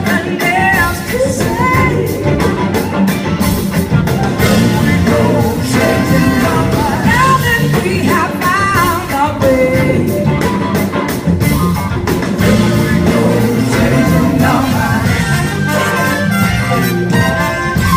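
Live blues-rock band music, played loud and continuously.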